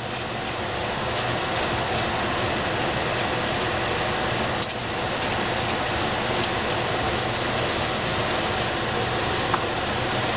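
Onion and capsicum strips frying in oil in a stainless steel pot, giving a steady sizzling hiss, with one light knock about halfway through.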